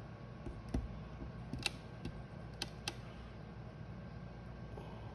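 A handful of sharp light clicks and taps of a soldering iron working the plastic of a car bumper, over a steady low hum.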